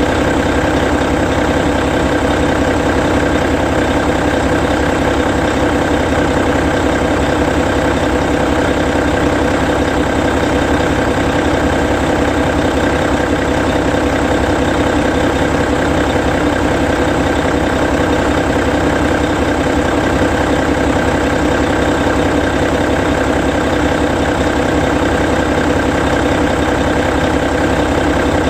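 Hino E13C 12.9-litre inline-six diesel engine of a Hino Selega tour bus idling steadily while the bus stands parked.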